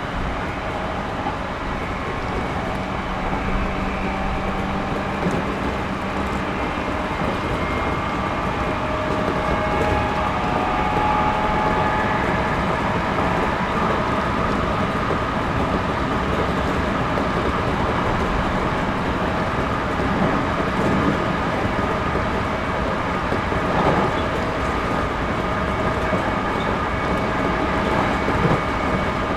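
Series 211-5000 electric multiple unit running between stations, heard from inside a passenger car: a steady rumble of wheels on rail with faint whining tones that drift slowly in pitch, and a single knock about 24 seconds in.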